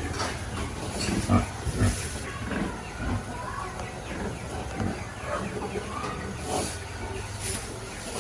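Farm animals calling in short, scattered calls, with a couple of sharp knocks in the first two seconds.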